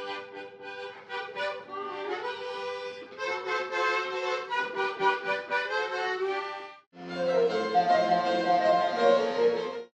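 Baroque chamber music of sustained wind melodies over harpsichord, in the style of a recorder and bassoon sonata. It breaks off suddenly about seven seconds in. A louder, fuller passage with lower notes then starts and also stops abruptly.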